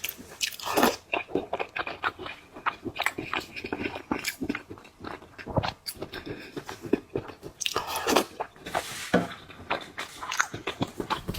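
Close-miked chewing and biting of seafood: irregular mouth sounds with many short, sharp clicks.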